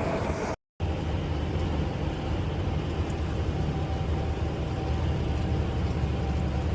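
Semi truck cruising at highway speed, heard from inside the cab: a steady low engine drone with road noise. The sound cuts out completely for a moment just after half a second in.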